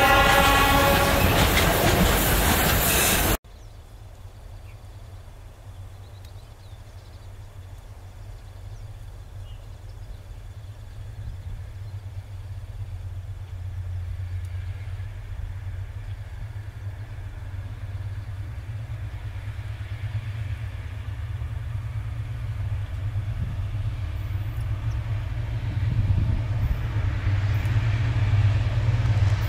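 Freight train boxcars rolling past, with a train horn sounding for about the first second. After an abrupt cut, the low rumble of EMD SD-series diesel locomotives coming out of a tunnel, growing steadily louder as they approach.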